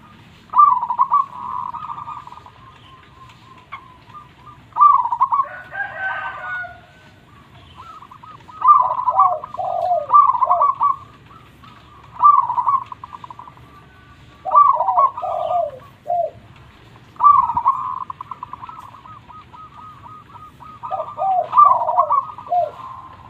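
Zebra dove (perkutut) cooing: about eight phrases of quick, stuttering coos, several ending in lower, falling notes, spaced a second or two apart.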